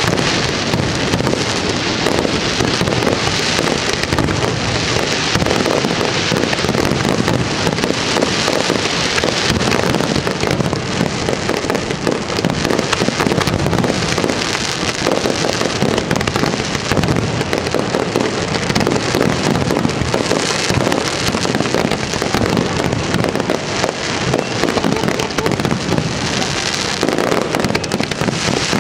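Aerial firework shells bursting in a dense, unbroken barrage heard at close range, the bangs overlapping with no pause, at a steady loud level.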